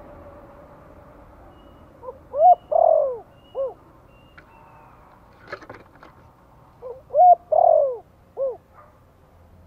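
Spotted dove cooing twice, about five seconds apart: each phrase is about four coos, a short lead note, two loud middle notes and a short last one, in the 'giọng Thổ' cooing style. A few faint clicks come between the two phrases.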